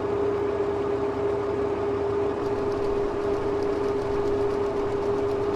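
Sugar beet truck's engine running steadily with the PTO engaged for the hydraulic dump bed: a constant drone with a steady whine.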